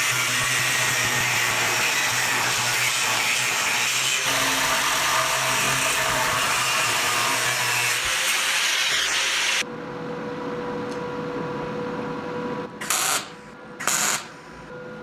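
A power tool running steadily with a loud, hissy noise, cutting off about ten seconds in. A quieter steady hum follows, broken twice by brief loud bursts.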